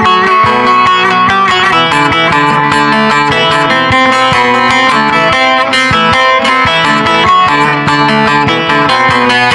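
Bağlama played solo, a quick run of plucked notes over ringing strings.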